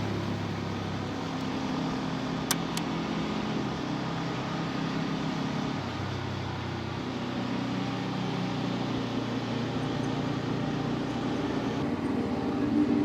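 Bajaj Pulsar N250's single-cylinder engine running at steady low revs while riding, with road and wind noise; the engine note shifts slightly about six seconds in. Two sharp clicks about two and a half seconds in.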